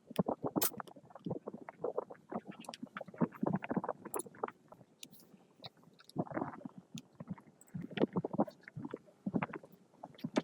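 Irregular clatter of short knocks, clicks and scrapes with no steady rhythm, like hand work on parts.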